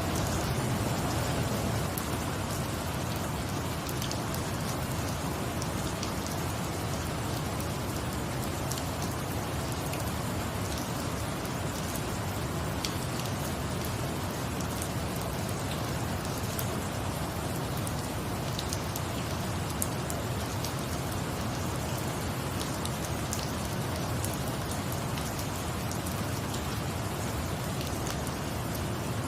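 Steady rain falling, an even hiss, with scattered faint ticks.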